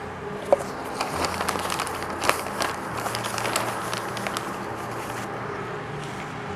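Dry potting mix full of small sticks rustling and crackling as it is handled, with scattered sharp clicks, settling down near the end.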